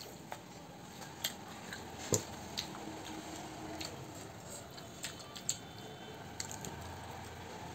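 Eating sounds from people chewing momos with their mouths alone: scattered wet clicks and smacks, with a sharper click about two seconds in.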